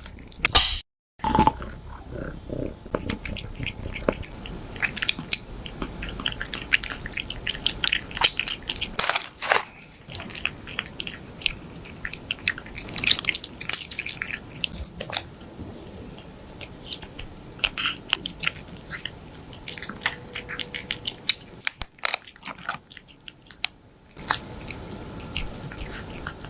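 A cat chewing a crunchy snack: rapid, irregular crunches and bites, with a brief break about a second in and a quieter pause near the end.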